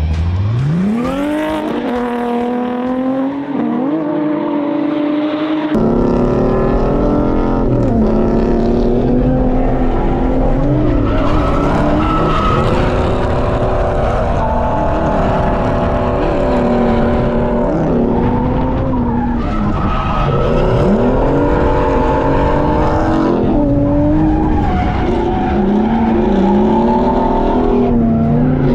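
Infiniti G37S's 3.7-litre V6 heard from inside the cabin while drifting: it revs up steeply in the first couple of seconds, then keeps rising and dipping as the throttle is worked, over the sound of tyres skidding.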